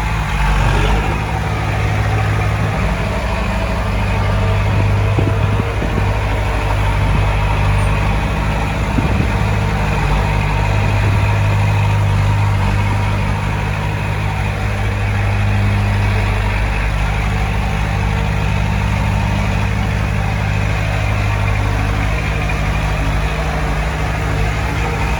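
Heavy diesel engine of earthmoving equipment running steadily, a deep hum that swells and eases slightly.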